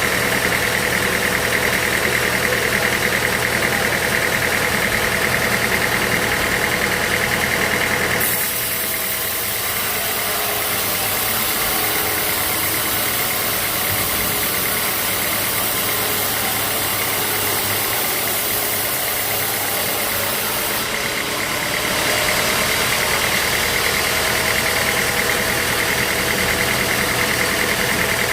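Sawmill machinery running steadily, an engine-like drone with a few steady tones. About eight seconds in it switches abruptly to a hissier sound, then switches back about thirteen seconds later.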